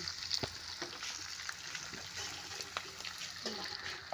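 Duck pieces in spice paste sizzling as they fry in a metal wok, with a metal spatula scraping and clicking against the pan now and then.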